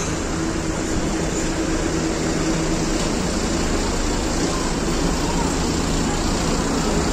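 Vehicle engine running steadily with road traffic noise, a steady low hum holding for the first three seconds or so.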